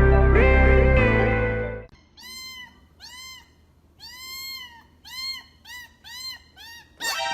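Background music for about the first two seconds, then a cat meowing over and over: about eight short meows, each rising and falling in pitch, the last one louder and harsher.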